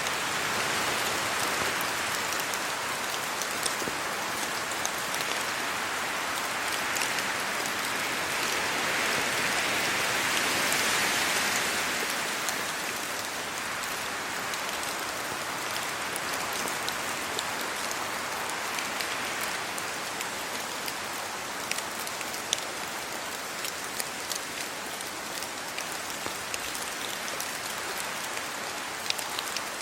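Steady rain falling, swelling louder for a few seconds about ten seconds in. In the second half, single heavy drops tick sharply and more often over the hiss.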